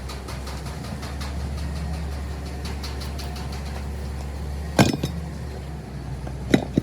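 A vehicle engine idling with a steady low hum, broken by a sharp loud knock about two thirds of the way in and two more near the end.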